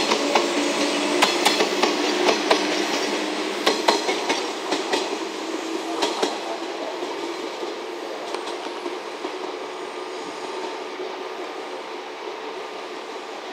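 JR West 381 series limited express electric train running away from the listener, its wheels clacking sharply over the track for the first several seconds, then its running sound fading steadily as it recedes.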